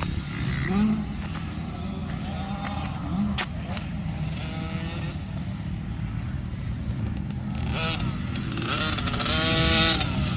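KTM factory edition 50 two-stroke minibike engine revving as it is ridden around a motocross track, climbing in pitch and getting louder from about eight seconds in. Its silencer needs repacking, which makes the exhaust sound horrible.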